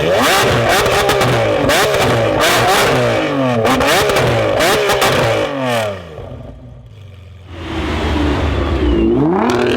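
A car engine being revved hard in quick repeated blips, the pitch climbing and falling about twice a second, with popping crackles from the exhaust. About six seconds in it drops away briefly, then revs up again near the end.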